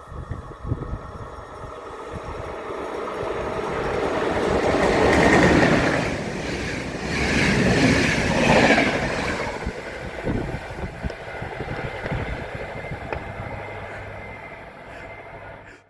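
Train passing along the tracks: the rush of wheels and rolling stock builds to a loud peak about five seconds in, comes back around eight to nine seconds, then fades away.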